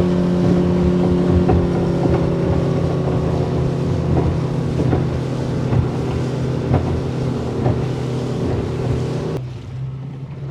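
Small fishing boat's motor running steadily under way, with rushing wind and water over it; about nine seconds in the sound suddenly drops to a quieter, lower hum.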